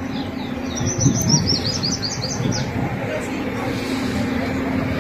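A bird chirping: a quick run of about a dozen short, high, falling notes lasting about two seconds, over a background murmur of voices.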